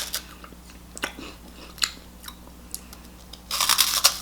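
Close-miked chewing of a crunchy puffed corn snack: a few crisp crunches, then a louder, longer crunch about three and a half seconds in.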